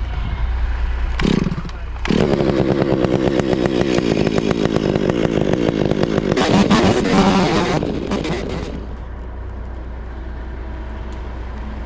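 A chainsaw runs at high revs from about two seconds in until near nine seconds, then drops away. A steady low engine drone sits underneath throughout.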